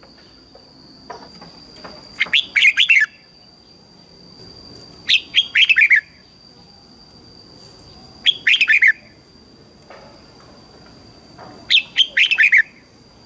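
Red-whiskered bulbul singing short, loud phrases, four times about three seconds apart, each a quick run of notes falling in pitch.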